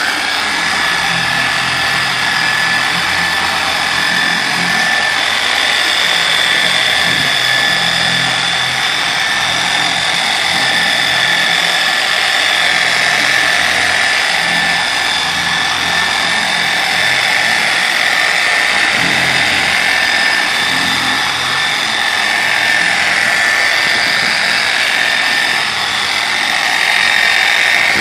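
Porter-Cable 7424 dual-action polisher running steadily at speed 3 with a constant whine, spreading paint sealant over a car's paint with very little pressure.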